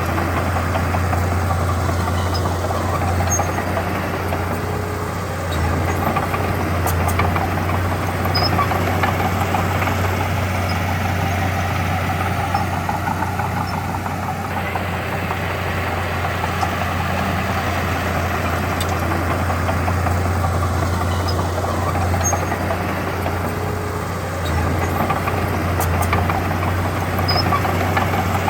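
Diesel engine of heavy earthmoving machinery running steadily with a low drone, its loudness dipping slightly twice.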